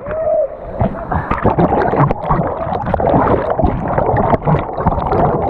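Rushing whitewater churning and splashing close to the microphone, a dense unbroken rush broken by many irregular splashes.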